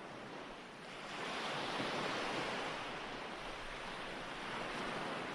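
Ocean waves washing on a shore, a steady surf hiss that swells as a wave comes in about a second in and then slowly eases.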